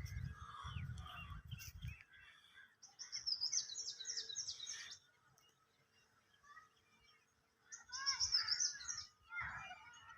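Several birds calling and singing, with two bursts of a fast, high trill about three seconds in and again about eight seconds in, and a quieter gap between them. A low rumble sounds under the birds in the first two seconds.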